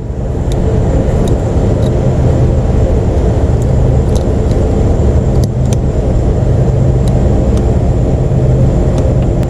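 Steady, loud mechanical drone with a low hum, with a few light clicks and taps of hand work over it.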